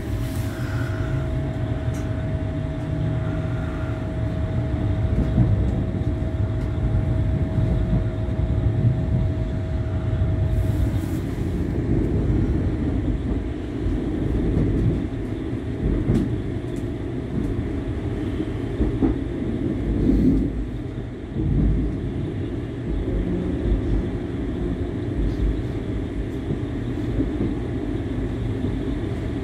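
Passenger train running, heard from inside the carriage: a steady low rumble of the wheels and running gear that swells and eases slightly. A thin, steady whine sounds over it for the first ten seconds or so.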